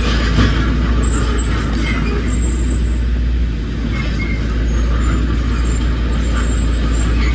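Heavy earthmoving machinery's diesel engine running steadily with a deep low rumble, easing slightly about three and a half seconds in.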